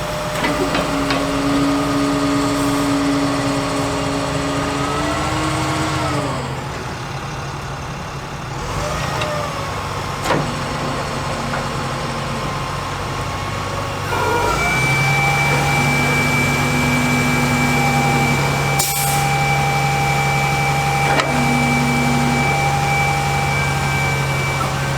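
International DT466 diesel engine of a digger truck running, twice stepping up to a higher steady speed and gliding back down: once from about a second in to about five seconds in, and again from about halfway to near the end. A high steady whine runs through the second higher-speed stretch, and a few sharp knocks are heard.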